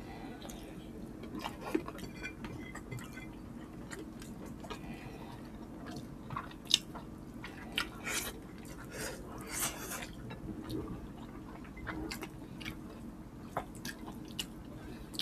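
Close-miked chewing and wet mouth sounds of people eating creamy chicken pastel and rice by hand, with scattered smacks and clicks, a few sharper ones in the middle.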